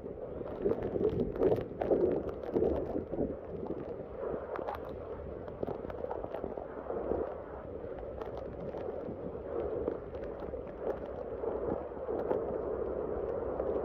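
Rushing, churning floodwater: a steady noisy rush that swells and eases irregularly.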